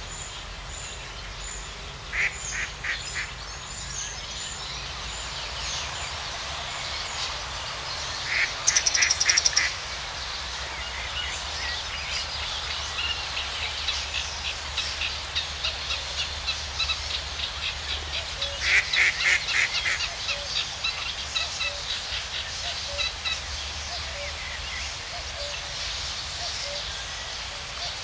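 Birds calling in short rapid series of pulsed notes over a steady background hiss, with the loudest bursts about two seconds in, around nine seconds and around nineteen seconds.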